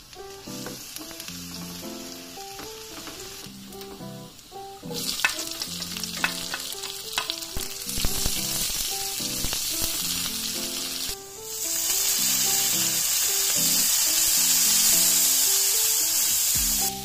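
Garlic and onion sizzling in hot oil in a wok, with a spatula clicking and scraping against the pan as it stirs. About eleven seconds in, a dark sauce goes into the hot wok and the sizzle becomes much louder and steady, with clouds of steam.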